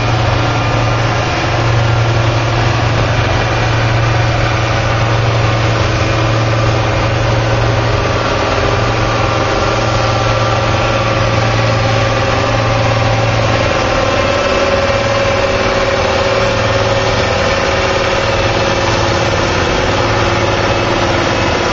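A stock farm tractor's diesel engine running steadily at low revs, without revving up for a pull.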